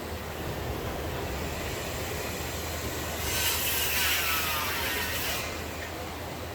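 Steady rain falling. About three seconds in, a louder hiss swells up and dies away again after about two seconds.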